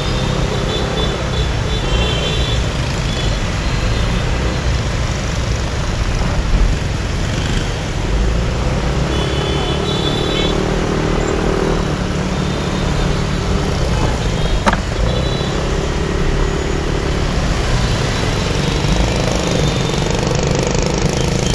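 Motorbike riding through busy city traffic: a steady rumble of engines and road noise, with short higher-pitched tones from other vehicles now and then and one sharp click about two-thirds of the way in.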